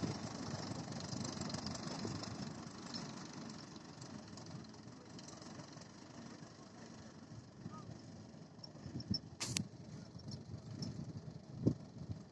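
TN-55 tractor's engine running, growing fainter over the first several seconds; later come a few irregular low knocks and one sharp click.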